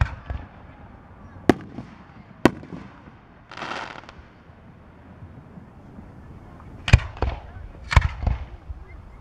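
Aerial firework shells bursting overhead: single sharp bangs with a short rumble at the start and twice more in the next few seconds, then a quiet gap, then a quick cluster of several bangs about seven to eight and a half seconds in.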